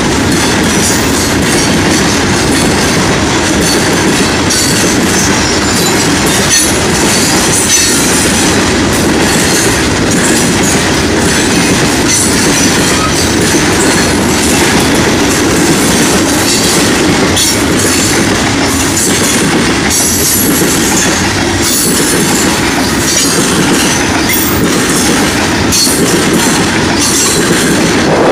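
Freight train of open hopper cars rolling past close by: a loud, steady rumble and clatter of steel wheels on the rails.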